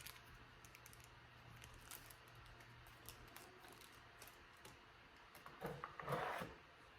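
Faint small clicks and light handling noise of accessories and packaging, with a brief louder rustle about six seconds in.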